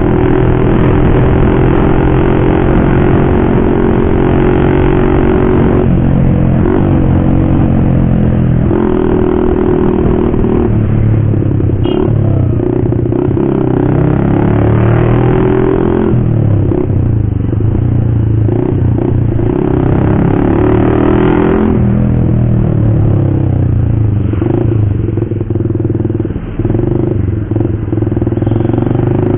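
Motorcycle engine running loud through an aftermarket racing exhaust, its pitch stepping up and down several times as the throttle and revs change.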